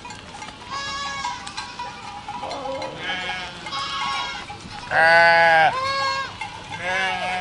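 A herd of goats bleating, one call after another. The loudest is a long bleat about five seconds in.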